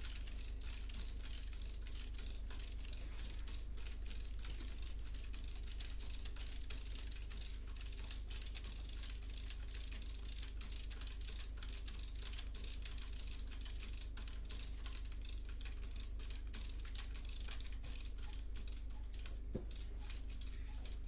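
Rapid, dense clicking of a come-along ratchet being worked to pull an engine hanging from an engine hoist, over a steady low hum.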